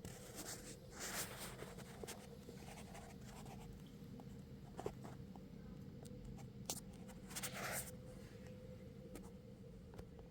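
Electric fan running: a faint, steady motor hum with irregular scratchy rubbing sounds over it.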